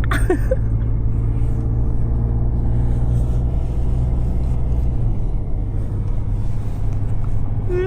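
Steady low drone of a car driving, heard from inside the cabin; it eases a little about five seconds in.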